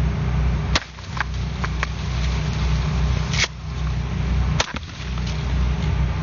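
Several sharp chops of a blade cutting through a fallen banana bunch's stalk to harvest it, the strongest about three and a half seconds in, over a steady low rumble.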